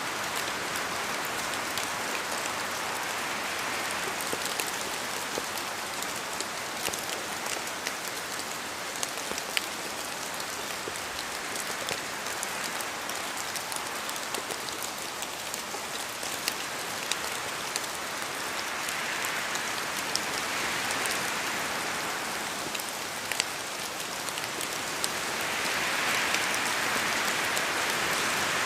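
Steady rain falling in a forest, with many sharp drop hits on leaves and surfaces over an even rushing hiss that swells louder in the last few seconds.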